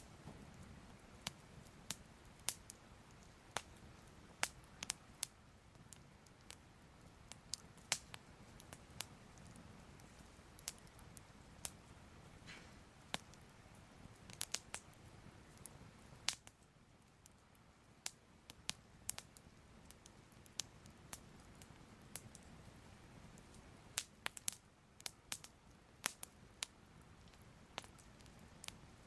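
Soft fire crackling: irregular sharp pops and crackles, a few a second, over a faint low rumble.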